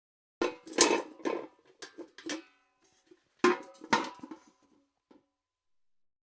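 Metal bucket clanking and rattling, knocks with a metallic ring, in two clusters of several hits each, then a single light knock near the end.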